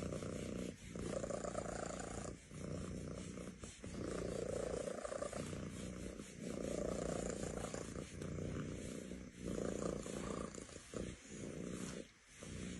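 A cat purring in long, steady strokes, with a brief pause about every second and a half as it breathes.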